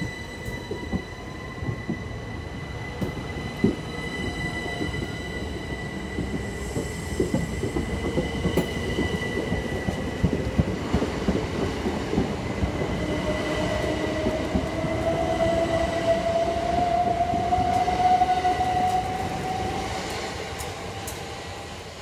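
Southern Class 377 Electrostar electric multiple unit pulling away and accelerating. A steady high whine runs throughout, and a second whine slowly rises in pitch in the second half as it gathers speed, over wheel noise and irregular clicks. The sound builds, then fades near the end as the last carriage passes.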